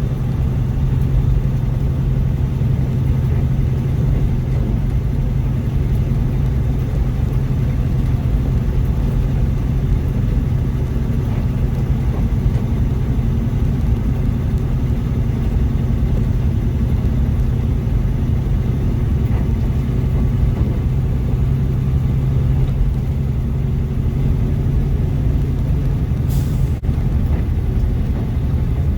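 Mack truck's diesel engine running steadily at cruise, a constant low drone with road noise. A short hiss comes near the end.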